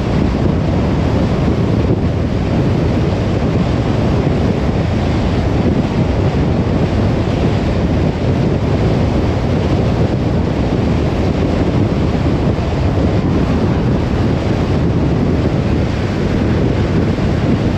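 Car driving at a steady speed: an even rush of tyre and wind noise, low and unchanging.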